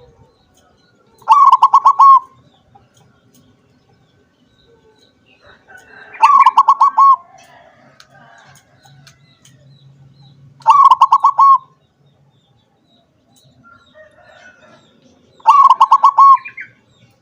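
Zebra dove (perkutut) singing: four short, loud cooing phrases about four to five seconds apart, each a quick run of pulsed notes.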